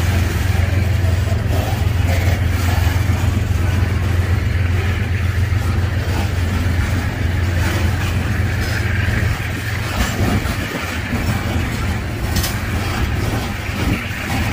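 Freight train running by with a steady low rumble. It eases off a little about nine seconds in.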